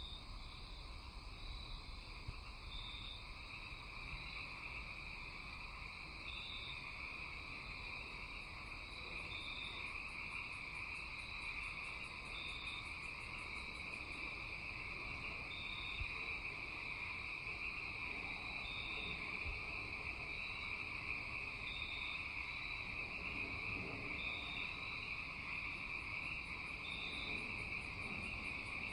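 Night chorus of crickets and other insects: a steady shrill drone with a short, higher chirp repeating about once a second. A very high, fast pulsing trill joins twice, about ten seconds in and again near the end.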